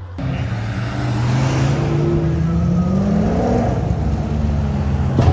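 A car engine accelerating as the car pulls away, its pitch climbing for about two seconds and then holding steady.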